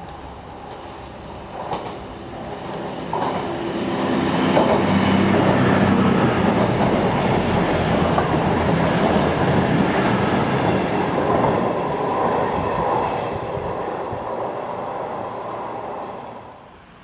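A train passing along the line. Its noise builds over about four seconds, stays loud for about eight, then fades and drops away abruptly near the end.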